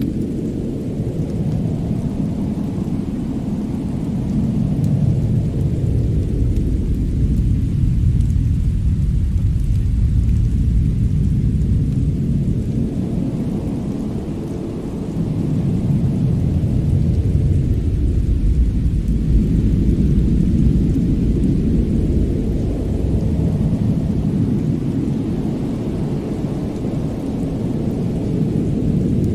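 Winter snow-and-fireplace ambience: a deep, rumbling noise that swells and eases in slow waves every several seconds, dipping noticeably about halfway through. There is no distinct crackle or other single event.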